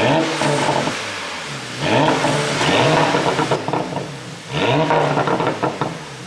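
Porsche Panamera 4S twin-turbo V6 revved three times in quick blips, pitch rising then falling away each time, with the exhaust crackling as the revs drop. The exhaust flaps are held open by an ECU tune that also adds the overrun pops.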